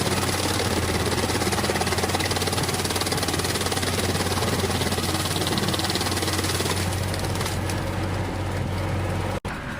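Massey Ferguson 241 tractor's diesel engine running steadily under load, driving a tractor-mounted banana shredder, with a dense mechanical clatter over the engine hum. The higher-pitched part of the noise eases about seven seconds in, and the sound cuts out for an instant near the end.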